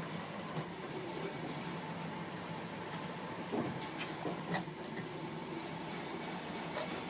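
Engine of a rebuilt Bombardier SW48 sidewalk plow running steadily. A couple of sharp clicks come through about halfway.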